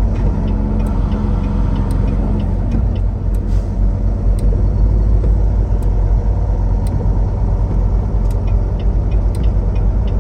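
Semi-truck engine and road noise heard inside the cab while driving, a steady low rumble. A light tick comes about once a second throughout.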